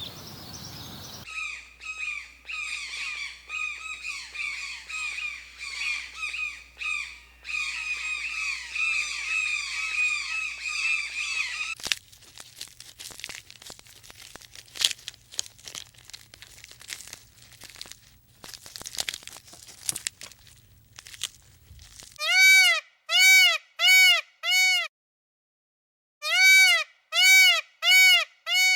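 Birds chirping in a dense chorus, then a stretch of faint clicks and rustles. Near the end comes a loud animal call repeated in two quick runs of four or five, with a short pause between them.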